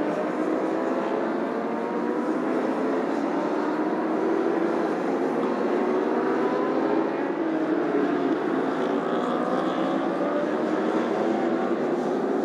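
Racing motorcycle engines running at speed, several at once, a steady blend of engine notes slowly rising and falling in pitch.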